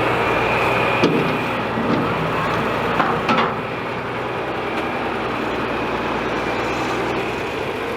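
John Deere farm tractor's engine running steadily, with two sharp knocks, one about a second in and one around three seconds in.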